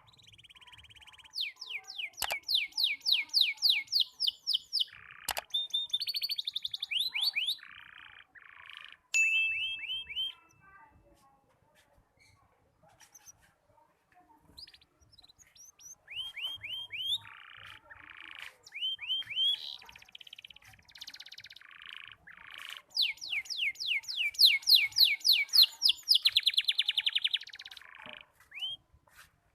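Young canary practising its song: broken-up phrases of fast, high chirping trills that start and stop, with a few seconds of near pause about midway. This is a juvenile's subsong, still fragmented and not yet strung into a full song.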